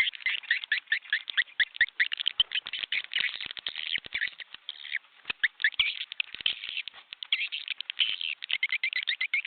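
Swiftlets twittering: a dense, ongoing chatter of rapid high chirps. It is the kind of swiftlet call recording played in nest houses to lure wild swiftlets in.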